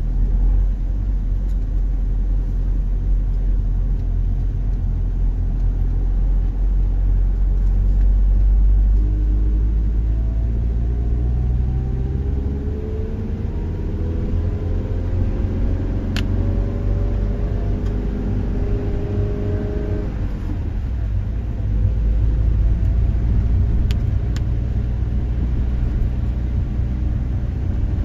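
A car running, with a steady low rumble. Its engine pitch rises from about ten seconds in and cuts back around twenty seconds.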